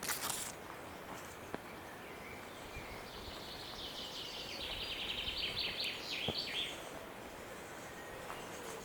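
A songbird singing one phrase of rapid repeated notes, lasting about three and a half seconds and ending on lower notes. A brief rustle sounds right at the start.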